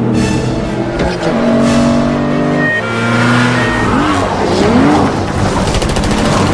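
Car chase sound: car engines running hard at high revs, their pitch stepping up and down with gear changes, with swooping revs about four to five seconds in.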